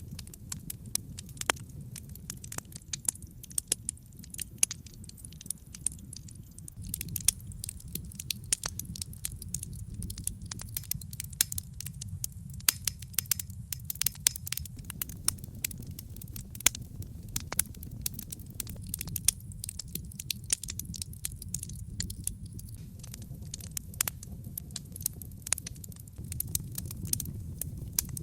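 Wood logs burning in a brick fireplace: dense, irregular crackling and popping over a steady low rumble of the flames.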